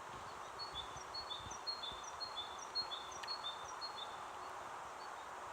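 A small songbird singing a quick, evenly repeated series of short high notes, which stops about four seconds in, over a steady background hiss.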